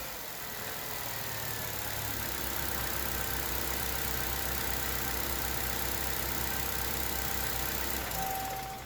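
Chevy Sonic's 1.4-litre turbocharged four-cylinder, freshly fitted with an Injen cold air intake, settling from a rev into a steady idle.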